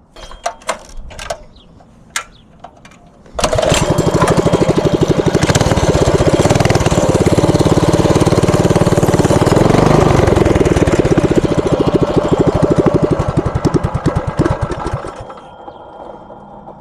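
A few clicks and knocks, then the Tillotson 212 single-cylinder engine on a Coleman CT100U mini bike catches suddenly and runs with a fast, even beat, picking up a little about two-thirds of the way through before dying away near the end.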